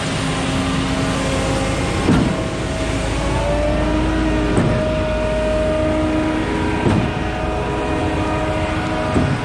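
Concord 40-metre boom concrete pump truck running under engine power, its pump cycling with a short shifting clunk about every two and a half seconds over a steady engine and hydraulic hum.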